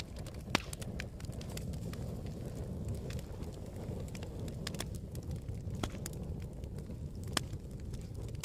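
Campfire crackling: scattered sharp pops and snaps, a few louder ones, over a steady low rumble.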